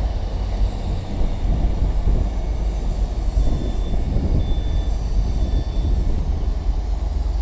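GWR Hitachi Intercity Express Train moving past: a steady low rumble from the train, with three brief faint high-pitched tones about a second apart near the middle.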